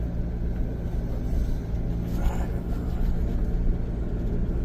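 Excavator's diesel engine running steadily, heard from inside the cab.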